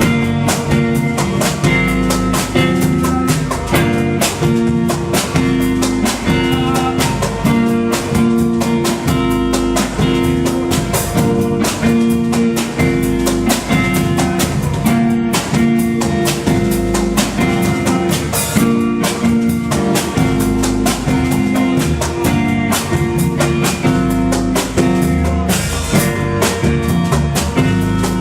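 Instrumental band music: guitar playing over a drum kit keeping a steady beat.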